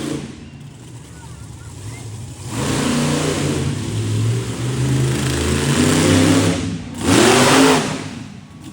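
An engine running loud and revving, with a sharp rev that climbs and falls back about seven seconds in.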